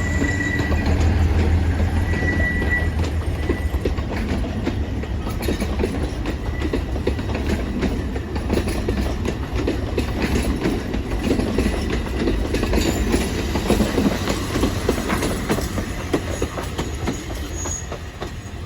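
An Alishan Forest Railway narrow-gauge passenger train pulling out of the station. It runs with a low rumble, its wheels click over the rail joints, and a brief wheel squeal comes near the start. The sound slowly fades as the train moves away.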